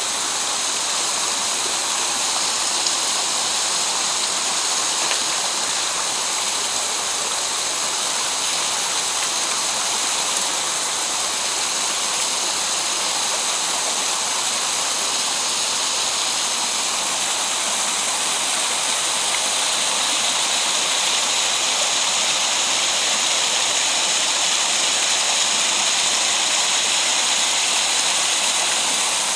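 Steady rush of water from a mountain gorge stream tumbling over rocks and small falls.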